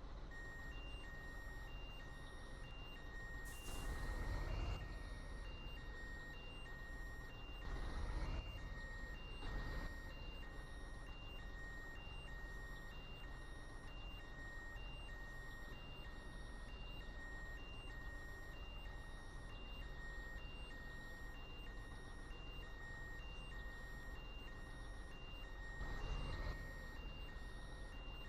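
Truck reversing alarm beeping in an even, repeating rhythm over a low vehicle rumble, with four brief louder rushes of noise along the way.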